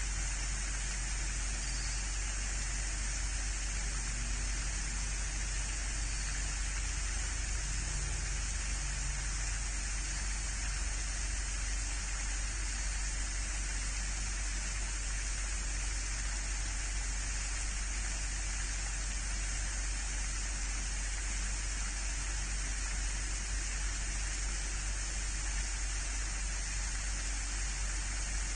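Steady, even rushing noise with a low hum beneath it, unchanging throughout.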